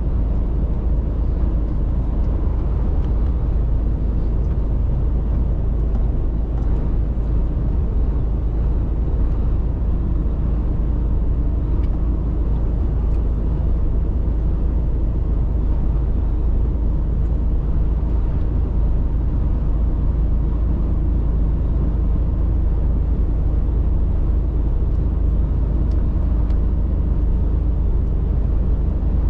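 Mercedes-Benz Actros truck driving, its engine and road noise making a steady, even low rumble.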